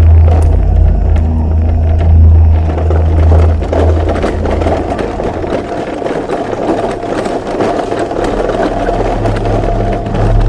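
A loud low droning hum that gives way after about four seconds to a noisier, grinding rumble, with the low hum coming back near the end: the kind of eerie sky drone passed around as 'strange sounds from the sky'.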